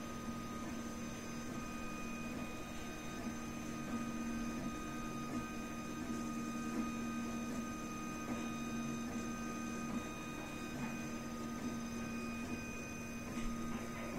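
RepRap Prusa Mendel 3D printer running: a steady low hum with a few thin, steady high-pitched whining tones above it.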